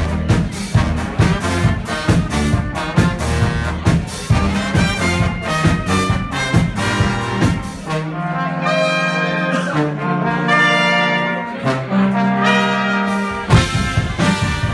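Brass band playing, with trombones, trumpets and a percussion beat. About eight seconds in the beat drops out and the brass hold long chords over a stepping bass line. The beat comes back near the end.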